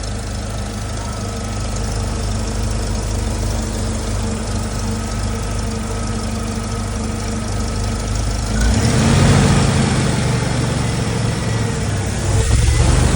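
1999 Jeep 2.5-litre four-cylinder engine idling steadily. About two-thirds of the way in it picks up speed and runs faster and louder, and it rises again near the end.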